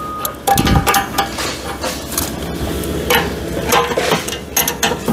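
Irregular metal clinks and knocks of a tool working the adjustable levelling foot of a hydraulic log splitter as the rear of the machine is raised, with a low thud about 0.7 s in.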